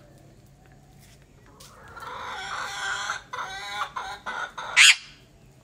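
Backyard chickens clucking from about two seconds in, ending with one short, loud squawk near the end.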